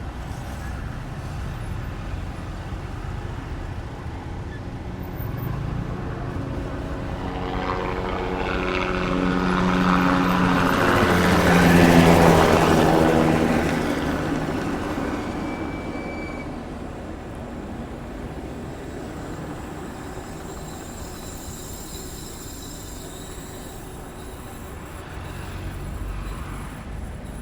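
A motor-driven vehicle passes close by. It grows louder to a peak about twelve seconds in, then fades, its engine note dropping in pitch as it goes past.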